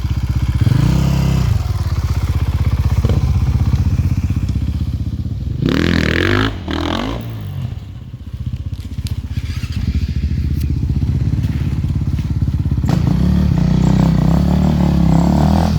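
Enduro dirt bike engine running close by, revving up and down, with a louder burst of throttle about six seconds in.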